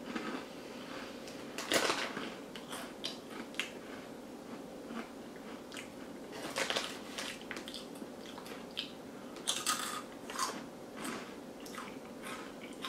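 Crunchy Flamin' Hot Cheetos, dusted with ranch powder, being chewed: irregular crunches, a few louder ones, close to the mouth. The plastic snack bag crinkles briefly as a hand reaches in about six seconds in.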